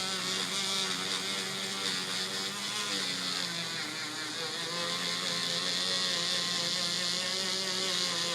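Small handheld electric sanding tool whirring steadily while sanding the yellowed toe box of an Air Jordan 7 sneaker. Its pitch drops about three seconds in and shifts again near five seconds.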